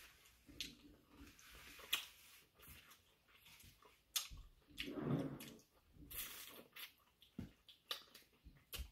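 Quiet mukbang eating sounds: scattered wet smacks and clicks of two people chewing and pulling apart spit-roasted chicken (lechon manok) by hand, with a brief muffled swell about five seconds in.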